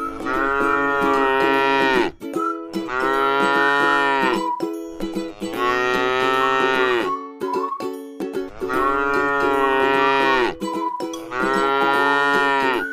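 A cow mooing again and again: five long, drawn-out moos, each falling off at the end, about every three seconds.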